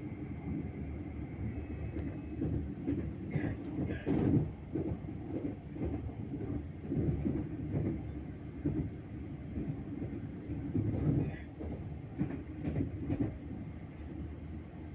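Passenger train running on the rails: a steady low rumble with irregular knocks and clatter from the wheels and carriage, loudest about four seconds in and again near the end.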